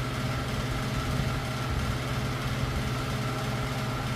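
Steady low mechanical hum of a running motor, unchanged throughout.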